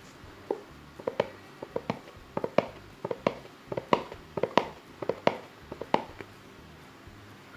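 Irregular sharp clicks or taps, two to four a second, stopping about a second and a half before the end.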